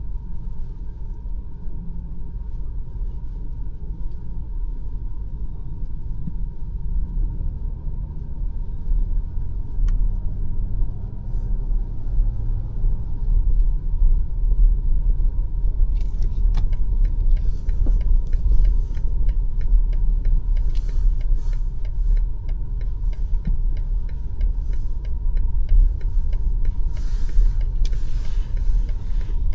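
BMW X5 M50i driving, a steady low rumble of road and engine noise. From about halfway in, scattered clicks and short hissy patches join it.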